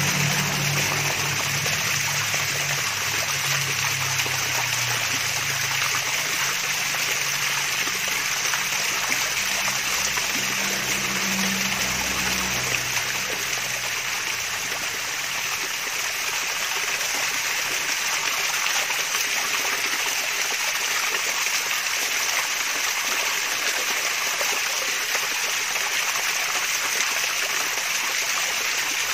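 Water splashing and babbling steadily down a small waterfall. A faint low hum sits under it for the first dozen seconds or so, then fades.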